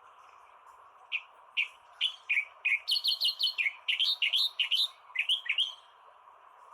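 Reed warbler (kerakbasi) singing a phrase of sharp, downward-slurred notes that quicken in the middle and stop just before the end, over a steady background hiss with a faint hum.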